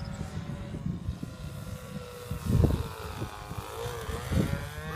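Radio-controlled model airplane's motor and propeller droning in flight, its pitch wavering as it comes in on approach. Wind buffets the microphone in loud rumbling gusts, strongest about halfway through and again near the end.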